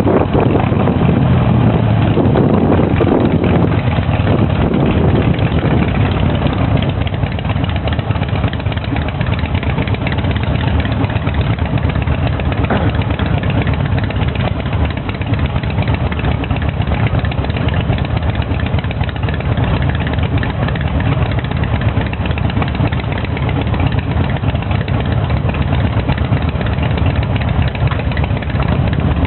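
Harley-Davidson V-twin motorcycle engine running steadily, busier and louder for the first several seconds and then settling to an even run.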